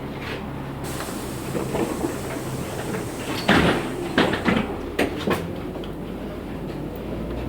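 Passenger doors of a LiAZ 6213.65 articulated bus working at a stop: a hiss of air starts about a second in, then a run of loud clunks partway through as the door leaves move and lock. The bus's engine hums under it.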